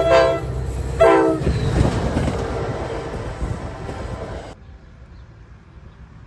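Locomotive horn sounding: the end of one blast, then a short second blast about a second in. The rumble and clatter of the passing train follow and cut off abruptly about four and a half seconds in.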